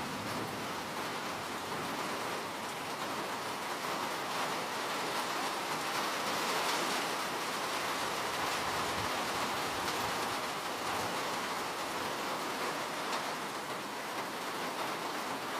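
Steady rain falling, an even hiss of dense raindrops with faint individual drop ticks.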